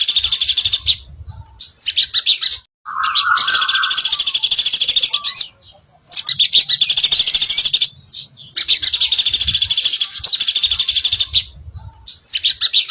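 Sogon dasi trotol bird singing in long bouts of very fast, rapidly repeated high chattering notes, with short pauses between the bouts. A brief lower whistle joins in about three seconds in.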